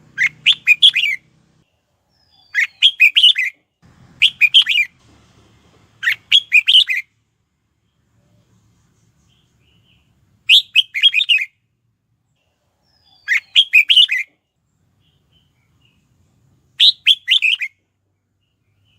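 Red-whiskered bulbul singing: seven short, quick warbling phrases of a few notes each, separated by pauses of one to three seconds.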